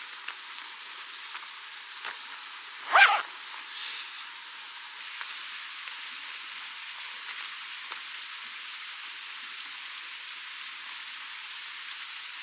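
Steady rushing of a forest stream, with one short, loud animal call about three seconds in.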